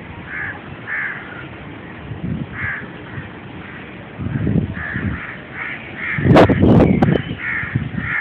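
Gusty wind buffeting the microphone in irregular low surges, strongest about six seconds in. Crows caw over it again and again.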